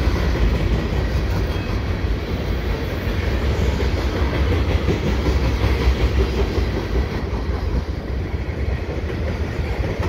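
Freight cars of a fast CN freight train rolling past close by: a steady noise of steel wheels on the rails with some clatter, and no locomotive in it. Heavy low buffeting of wind on the microphone runs under it.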